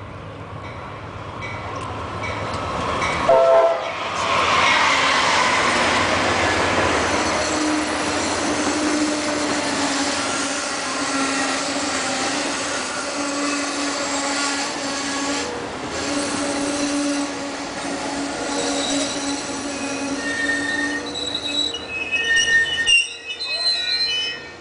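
Train passing close by: a short horn blast about three seconds in, then the steady running noise of the cars with high, held wheel squeal over it, and a few loud jolts near the end.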